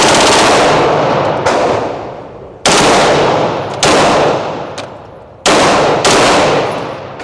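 Smith & Wesson M&P 2.0 9mm pistol with a Freedom Finger forced-reset trigger firing fast: about six very loud reports, each ringing out in a long echo before the next.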